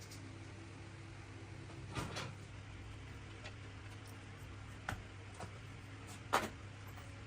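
A few scattered knocks and clicks, the loudest about six seconds in, over a low steady hum.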